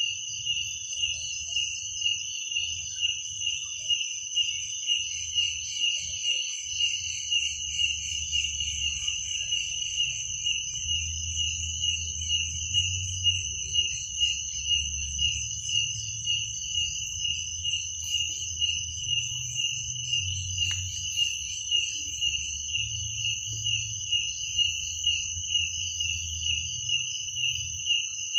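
Crickets chirping in a steady night chorus: a continuous high-pitched trill that swells in a regular beat about three times every two seconds, over a faint low hum.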